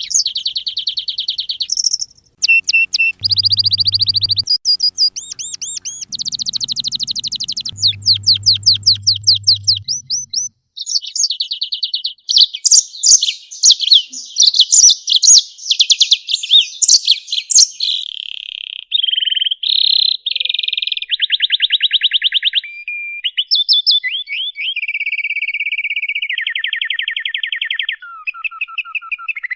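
Songbird song for training cage birds: a continuous, loud run of rapid high trills and fast repeated chirps, switching to a new note pattern every second or two. A low hum sits under the song twice in the first ten seconds.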